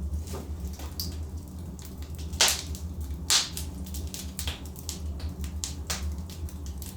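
Logs burning in a fireplace, crackling and popping at irregular intervals, with two louder pops about two and a half and three and a half seconds in, over a steady low hum.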